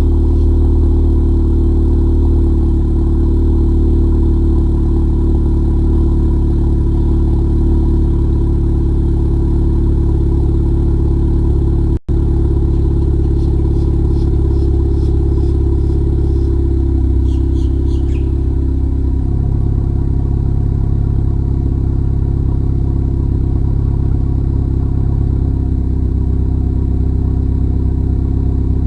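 Honda Accord 1.5-litre turbo four-cylinder idling steadily through a Thermal R&D exhaust with a catless downpipe, shortly after a cold start. The sound cuts out for an instant about twelve seconds in, and the tone shifts slightly a little past the middle.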